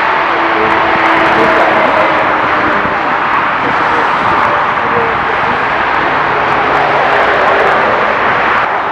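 Lufthansa Boeing 747-8's four GEnx turbofan engines at takeoff power, a loud steady jet roar with a few faint whining tones in it.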